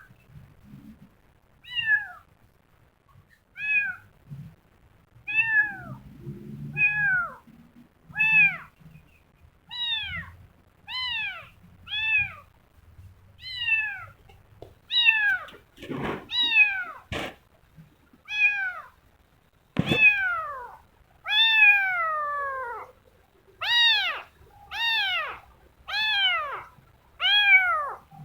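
Kitten meowing over and over: short high calls that fall in pitch, about one a second, louder near the end. A few sharp knocks come in the middle.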